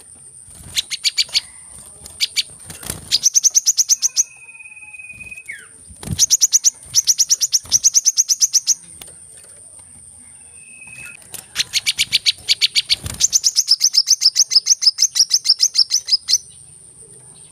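Sunbird song: bursts of fast trills of sharp, evenly repeated high notes, about ten a second, broken by two short whistles that dip at the end. A steady high whine runs underneath.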